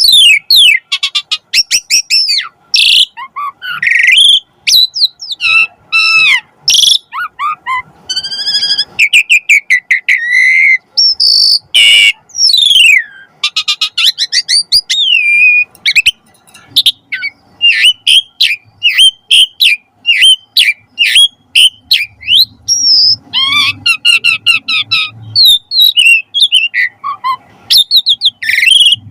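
Asian pied starling singing a long, rapid, varied song of whistled notes sweeping up and down, chattering trills and a few sharp clicks.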